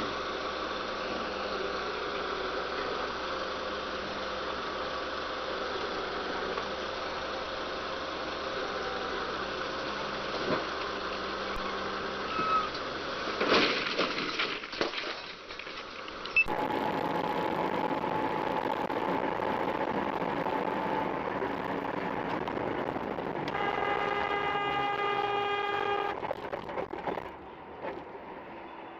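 Steady vehicle and engine noise with a few clattering knocks, then after a cut a vehicle horn sounds one sustained blast of about two and a half seconds.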